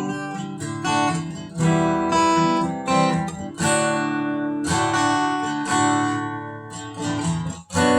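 Acoustic guitar strumming chords in an instrumental passage of a folk-blues song, with no singing.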